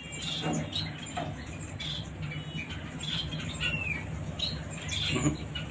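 A pet parrot giving short chirps and squawks, with a couple of brief falling whistled notes and light scratchy clicks, over a steady low hum.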